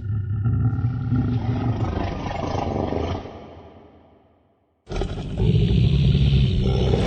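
Low, deep creature roar sound effect that fades out, then a second deep, rumbling roar starts suddenly about five seconds in.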